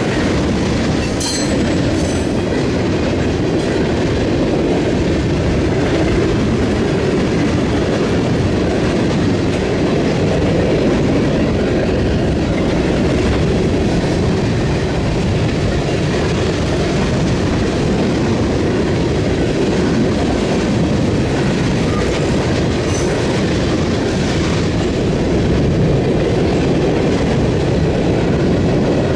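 Freight train rolling past at close range: a steady, continuous rumble of cars on the rails. Brief faint high squeals come from the wheels about a second in and again around twenty-three seconds in.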